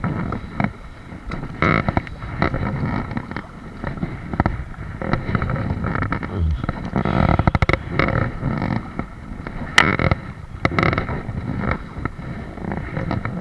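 Kayak on the water: water splashing and lapping against the hull, with irregular sharp knocks throughout and a quick run of them about seven seconds in.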